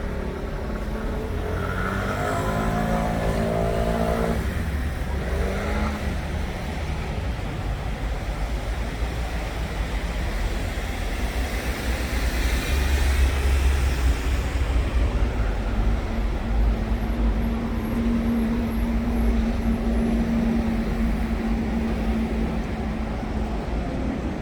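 Motor traffic on a busy road: a continuous low engine rumble that swells about halfway through, with a heavier vehicle's engine note rising early on and a steady engine hum later.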